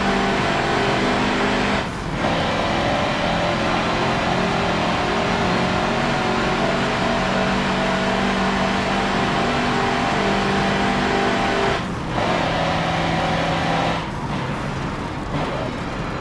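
Mercedes-Benz racing truck's turbo-diesel engine running hard under load. Its note drops briefly about two seconds in and again near twelve seconds, and dips for longer near the end.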